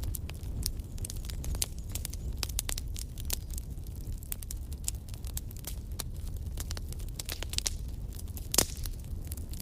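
Wood fire in a fireplace crackling, with frequent sharp pops and snaps over a steady low rumble. One louder pop comes near the end.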